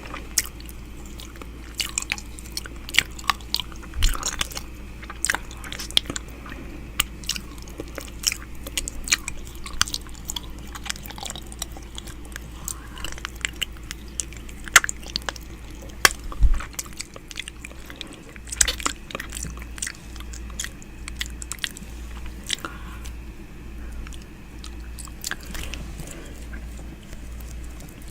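ASMR 'ear eating' mouth sounds made right at the microphone: a constant run of short wet clicks, smacks and licks. A steady low hum runs underneath and starts to pulse about two-thirds of the way through.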